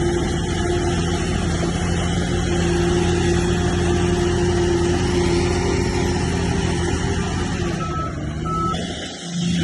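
Heavy diesel engine of earthmoving machinery running steadily under load, with a constant hum. Two short high beeps sound near the end, and the engine sound dips briefly just before it ends.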